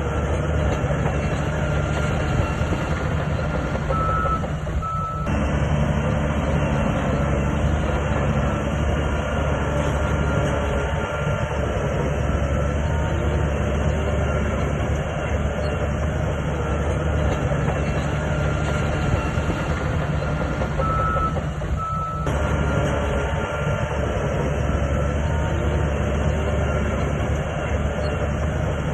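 SHANTUI crawler bulldozer's diesel engine running under load, with steady clanking of the steel tracks. Short high beeps sound twice, about four seconds in and again near 21 seconds. The sound shifts abruptly around five seconds in and again near 22 seconds.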